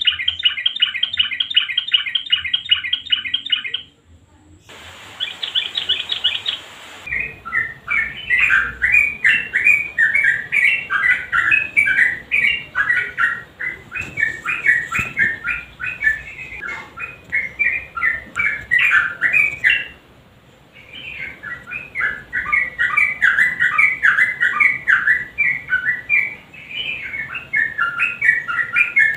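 Yellow-vented bulbul (trucukan) singing. It opens with a fast, even rattling trill; after a short break come long runs of loud, jumbled, bubbly chattering song, with a brief pause about two-thirds of the way through.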